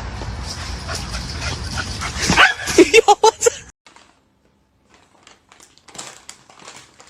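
A small dog giving a quick run of about six short, high yips and whimpers over a rustling, noisy background. After that the sound cuts off, leaving only faint light clicks.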